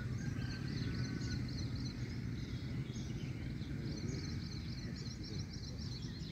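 Birds chirping in quick runs of short high notes, one at the start and another from about three seconds in, over a steady low outdoor rumble.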